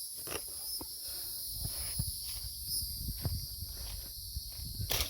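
Footsteps on a woodland trail, with scattered crunches and knocks, over a steady high-pitched chorus of insects.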